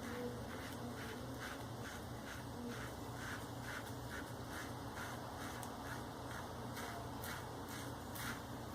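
Maggard V3A safety razor with a Shark Super Chrome blade scraping through lathered beard stubble in short, quick strokes, about two a second.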